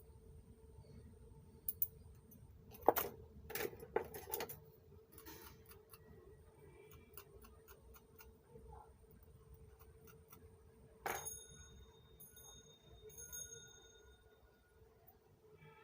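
Scattered clicks and light knocks of small tools and parts being handled. One louder metallic clink about eleven seconds in rings briefly. A faint steady hum runs throughout.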